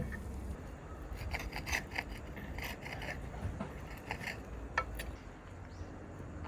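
Light scraping and rubbing in short scratchy strokes through the first half, with a few small clicks later, over a steady low rumble.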